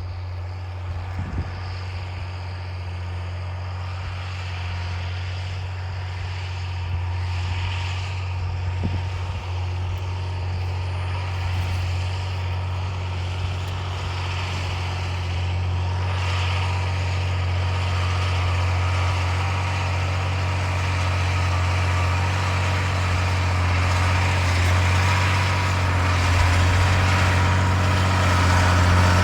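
John Deere 8200 tractor's six-cylinder diesel engine running steadily under load, pulling a deep-till cultivator through the ground, growing gradually louder.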